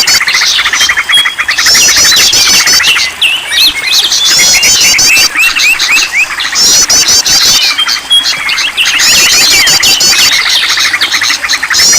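A dense, loud chorus of many songbirds calling over one another: rapid trills and sweeping chirps, with a burst of fast high chirping that recurs several times. It is a mixed-species bird-lure (pikat) recording, played to stimulate caged birds to sing.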